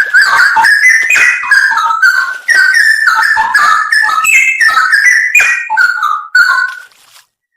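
Straw-headed bulbul (cucak rowo) singing a loud, rich song of quick, bubbling whistled phrases. The song breaks off about seven seconds in.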